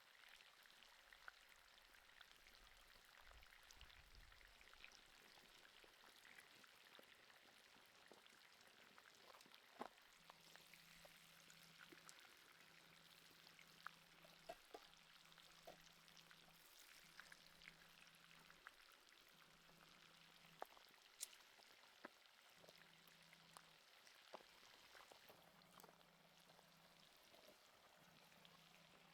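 Very faint sizzling and crackling of meat grilling over hot coals, with scattered small pops. From about ten seconds in, a faint low hum comes and goes in stretches of about a second and a half.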